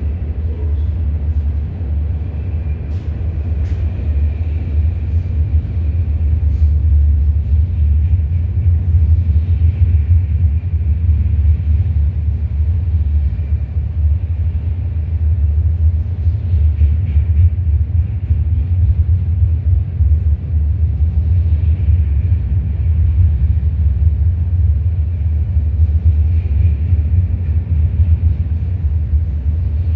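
CN freight train rolling past, a steady low rumble throughout.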